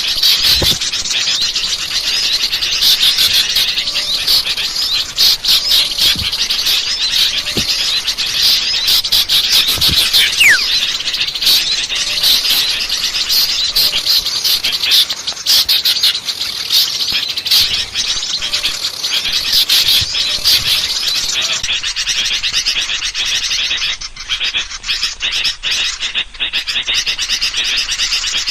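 Noisy chorus of many small birds chirping and twittering at once in a dense, unbroken clamour, a lure recording for attracting small birds.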